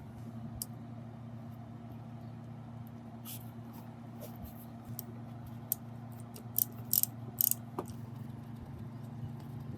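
A steady low hum with a scatter of short clicks and scrapes, sparse at first and clustered and louder between about six and eight seconds in.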